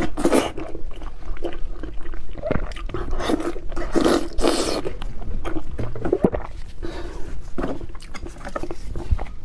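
Close-miked bite into a raw cucumber, then crunchy chewing of it, with the crunching loudest just after the start and again about four seconds in.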